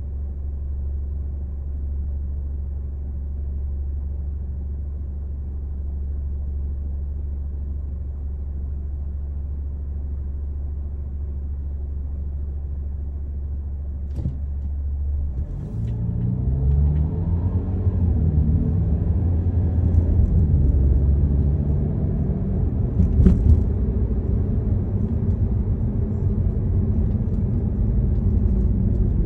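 Car engine and drivetrain heard from inside the car: a steady low idle hum, then about halfway through the car pulls away and the engine note rises and falls as it accelerates through the gears, with road noise building. A couple of sharp clicks are heard, one just before it moves off and one later.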